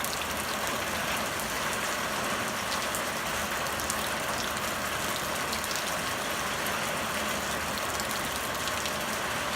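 Steady hiss of rain falling, with a few faint drop ticks.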